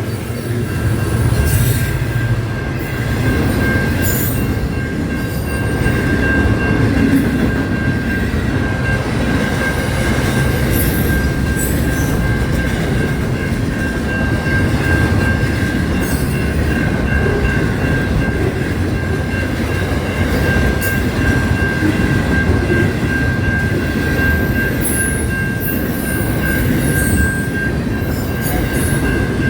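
Train running on rails, a steady rumble with a sustained high-pitched wheel squeal held throughout and scattered clicks from the wheels and track.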